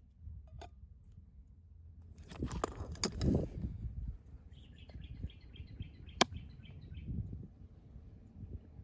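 Low outdoor rumble with a burst of close rustling and knocks, then a bird calling a quick run of about ten high chirps, a sharp click partway through the run.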